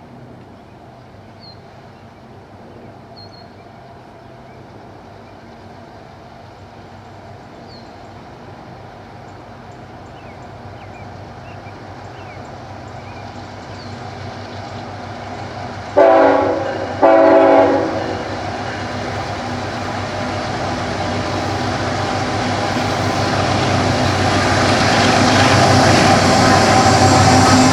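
Approaching CN intermodal freight train led by a GE ET44AC diesel locomotive, its engine and wheel noise growing steadily louder. About sixteen seconds in the locomotive's air horn sounds two short blasts, a horn salute, and the train is loudest near the end as it draws level.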